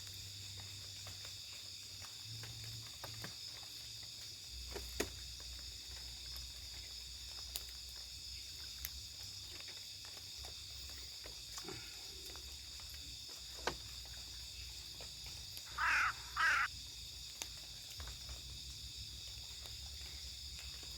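Steady night chorus of crickets and other insects. About three quarters of the way through, an animal gives two short, wavering calls in quick succession, which the camper takes for an owl.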